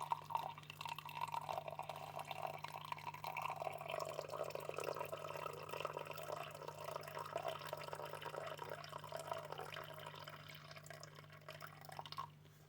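Water pouring steadily into a vessel, a continuous splashing trickle that stops abruptly near the end, over a faint steady hum.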